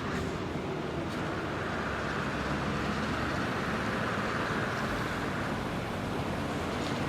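Road traffic noise with a heavy truck engine running, tyre and wind hiss over a low engine hum, growing slowly louder.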